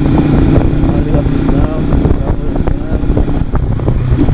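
Motorcycle engine running at a steady pitch, under rough low noise.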